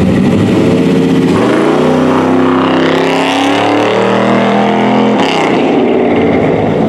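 Performance car engine running at a steady rev, then about a second and a half in revving up hard with its pitch climbing for several seconds, and dropping off suddenly a little after five seconds in.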